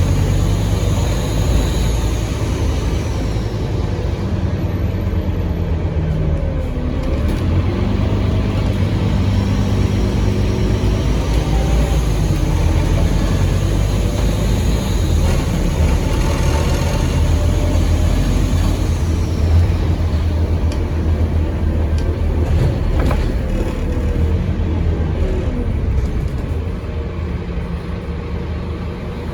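Scania N230UD OmniCity bus's five-cylinder diesel running under way, heard from on board, with a loud turbocharger whistle that rises, holds and falls away as the bus pulls and then eases off.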